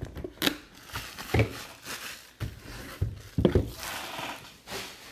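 Packaging being opened by hand: plastic wrap crinkling and tearing, with several sharp clicks and knocks as the box is handled.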